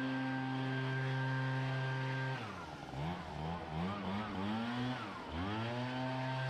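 Small gas engine on lawn equipment running at a steady high speed. About two seconds in, the throttle is let off and the engine drops toward idle, is blipped up and down several times, then is brought back up to full speed near the end.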